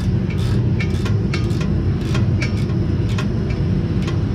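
A steady low mechanical rumble with a regular ticking about two to three times a second over it.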